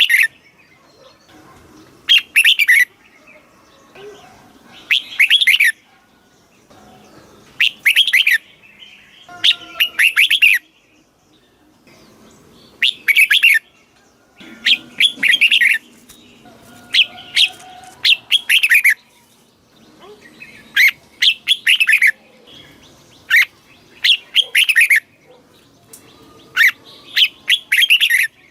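Red-whiskered bulbul singing: about a dozen short, loud, warbling phrases, each under a second, one every two seconds or so.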